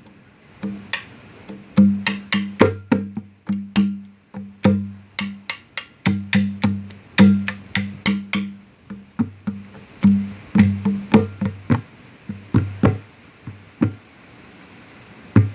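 Conga drum played with bare hands: quick, uneven runs of strokes, many with a ringing deep tone and some sharper and brighter, broken by short pauses.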